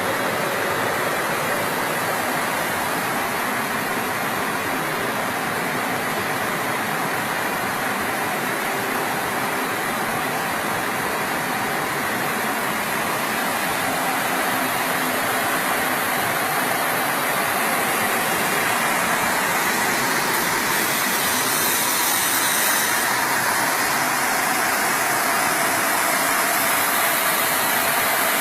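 Glass-sheet washing machine running with its water pump on: a steady rushing of spray water mixed with machine motor noise, growing a little louder about halfway through, with a brief brighter hiss near the end.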